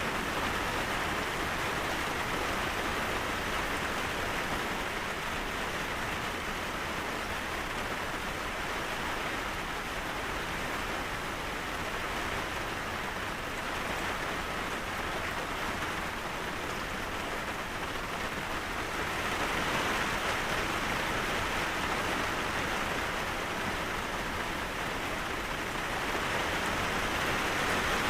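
Steady rain falling, a continuous even hiss that swells slightly about two-thirds of the way through and again near the end.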